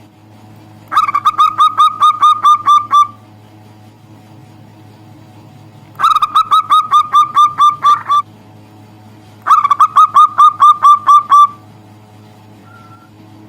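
Zebra dove (perkutut) calling in three bursts of about ten quick repeated cooing notes, each burst about two seconds long. A low steady hum runs underneath.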